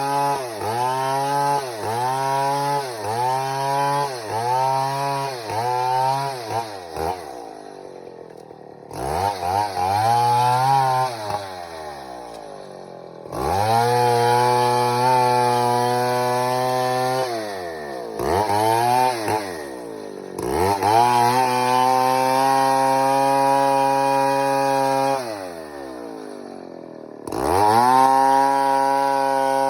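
Stihl 070 two-stroke chainsaw engine. For the first several seconds it revs in quick repeated blips, about one every 0.7 s, then eases off. After that it is held at steady high speed for stretches of a few seconds, dropping back to lower speed between them.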